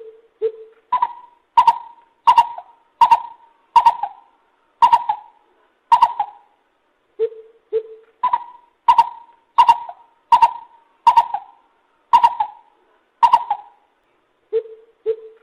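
Lesser coucal calling: repeated phrases of hollow hoots, each opening with two low notes and running on in a string of about eight higher notes spaced well under a second apart. A new phrase begins about seven seconds in and another near the end.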